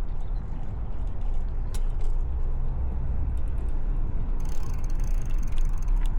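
Bicycle freewheel clicking rapidly while the rider coasts, starting about four seconds in, over a steady low rumble from riding.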